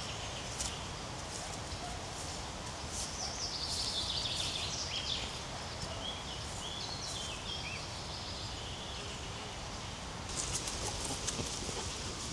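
A small bird singing: a falling run of high notes lasting a few seconds, over a steady low outdoor rumble. A cluster of sharp clicks comes near the end.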